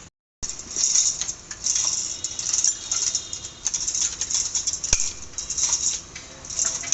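Hand tools and metal engine parts clicking and rattling in quick, irregular runs during an engine teardown, starting abruptly after a brief silence, with one sharper click about five seconds in.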